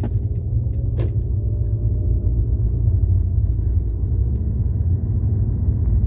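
Car cabin rumble while driving: a loud, steady low drone of road and engine noise, with a faint click about a second in.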